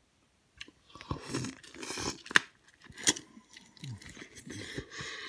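A person chewing and eating close to the microphone, with crunching and wet mouth sounds that start about half a second in. Two sharp clicks stand out about two and three seconds in.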